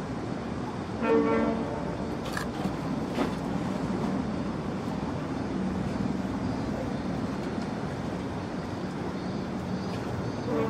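A short horn toot about a second in, lasting about half a second. It sits over a steady low hum and a background of wind and water noise.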